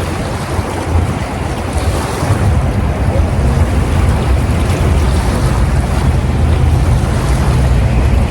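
Wind buffeting the microphone outdoors: a loud, steady low rumble that flickers constantly, with a rushing hiss above it.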